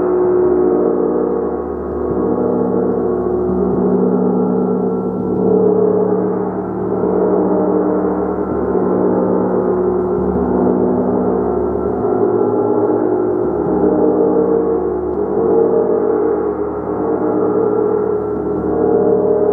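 Gong played continuously: a dense wash of many overlapping sustained tones that swells and ebbs every couple of seconds.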